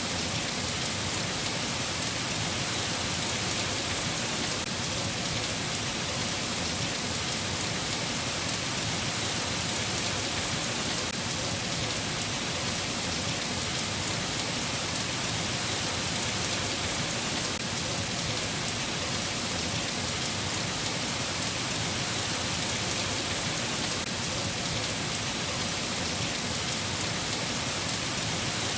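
Steady rain falling: an even, unbroken hiss of rain with no thunder.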